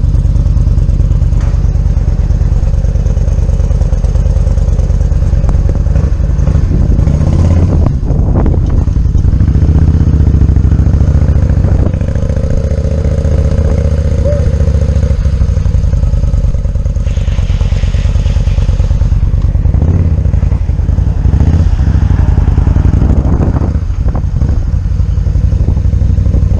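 Yamaha V-Star 950's air-cooled V-twin engine running steadily as the motorcycle is ridden, heard loud from on the bike.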